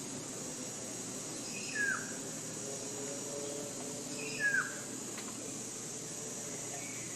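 A bird calling twice, each call a short high note followed by a quick downward-slurred whistle, over a steady high-pitched hiss of forest ambience.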